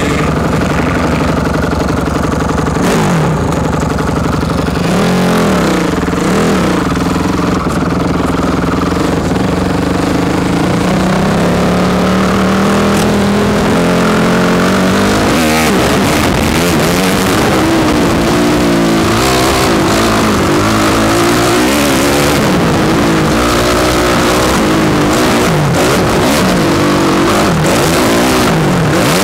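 Motocross bike engine heard from the rider's helmet, revving up and down with the throttle through the lap, the pitch repeatedly climbing and dropping, with wind and rattle noise over it.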